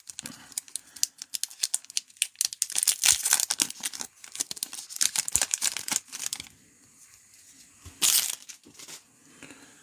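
Card pack wrappers being torn open and crinkled by hand: dense crackling and rustling for about six seconds, then a short tearing sound about eight seconds in.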